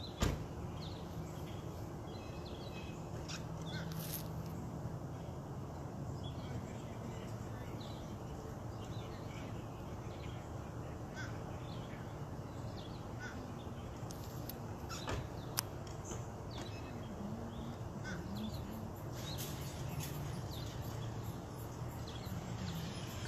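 Crows cawing and small birds calling over a steady low background hum, with a sharp click right at the start and another about fifteen seconds in.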